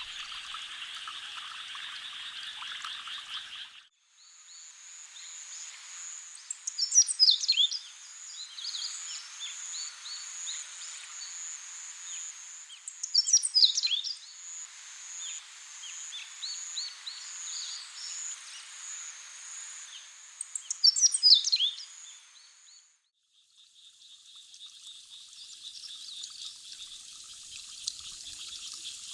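Paddy-field frogs calling in a dense chorus, breaking off about four seconds in. Then a steady high insect trill with a bird singing three loud, falling phrases about seven seconds apart. The frog chorus returns near the end.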